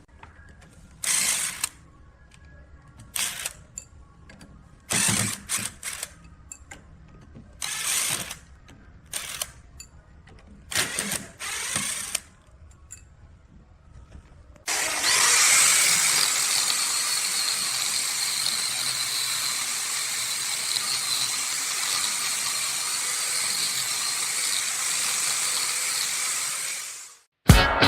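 A series of short rasping strokes, then a power tool starts and runs steadily for about twelve seconds before stopping shortly before the end.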